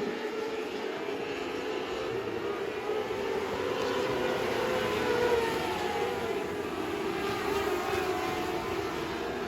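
Race car engine running hard, its pitch rising and falling as it revs, over a steady rush of noise; loudest about five seconds in.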